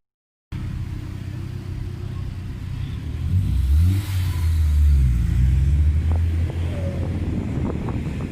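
Car engine revved hard about three seconds in, its pitch rising and falling for a few seconds before settling back to a lower rumble.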